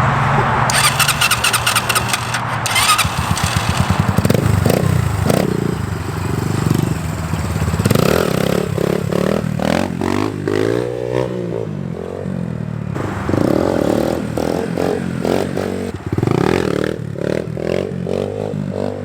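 SSR 150 pit bike's single-cylinder four-stroke engine revving up and down again and again, its pitch rising and falling with each burst of throttle as the rider pops wheelies.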